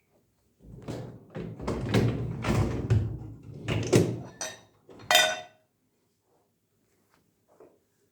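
Dishes being unloaded from a dishwasher: a run of knocks and thuds, then a short ringing clink about five seconds in.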